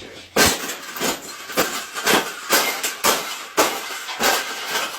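A cage being struck over and over: about nine hard, clattering knocks, roughly two a second, each with a short metallic ring.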